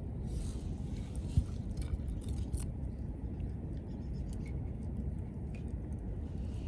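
Wood fire crackling, with sparse sharp pops over a steady low rumble, and a single low knock about a second and a half in.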